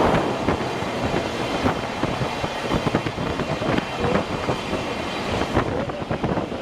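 Passenger train running on rails, with a steady rumble and irregular clatter of wheels over rail joints.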